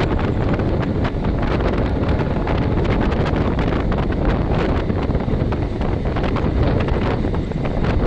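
Moving passenger train: air rushing over the microphone in a steady loud roar, with the low rumble of the running gear and frequent irregular clicks and knocks from the wheels on the rails.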